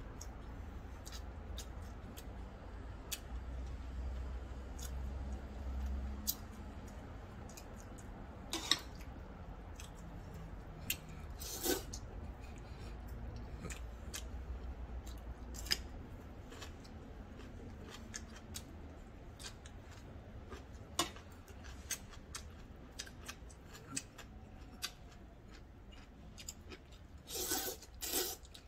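Close-miked chewing of food, with many small crisp, wet mouth clicks. Near the end, a short run of loud slurps as a mouthful of ramyeon noodles is sucked up.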